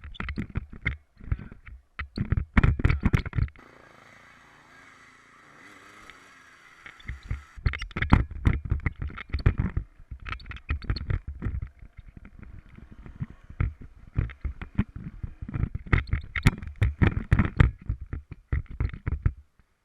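Irregular rumbling and knocking on the microphone of a camera riding along on a motorcycle trip, with a quieter stretch of hiss from about 4 to 7.5 seconds in.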